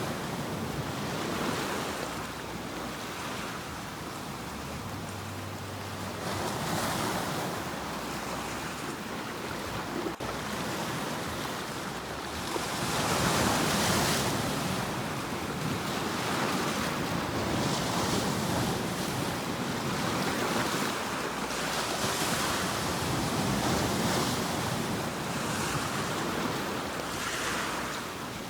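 Sea waves breaking and washing on a shore, a steady hiss that swells and ebbs every few seconds as each wave comes in.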